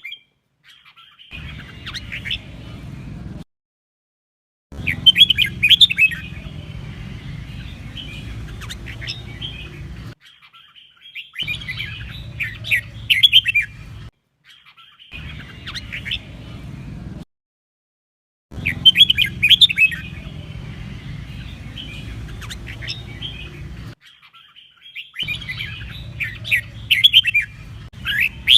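Red-whiskered bulbul singing in bursts of quick chirping phrases, cut together from several recordings with short gaps of dead silence between them; a low steady hum underlies each segment.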